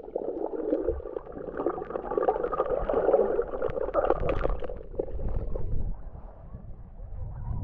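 Sea water gurgling and sloshing, muffled, as heard by a camera under the surface, with a crackle of small clicks. After about five seconds it drops to a low rumble.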